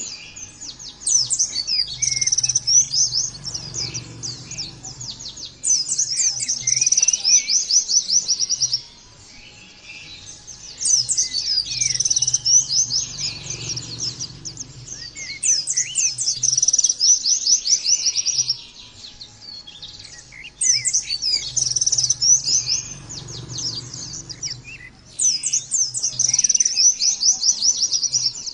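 White-eye (pleci) singing in long runs of rapid, high twittering, in phrases a few seconds long that repeat with short pauses between.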